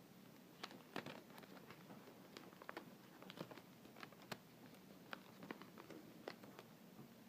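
Faint handling of paper and Scotch tape: irregular small clicks, ticks and rustles.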